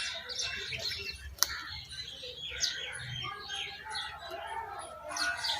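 Small birds chirping in quick, short notes, with a few louder calls that slide downward in pitch. One sharp click about one and a half seconds in.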